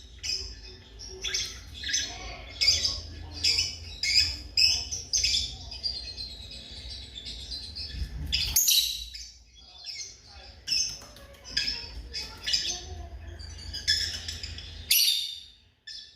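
Lovebirds chirping: a rapid run of short, high-pitched calls, several a second, breaking off briefly about nine seconds in and again near the end.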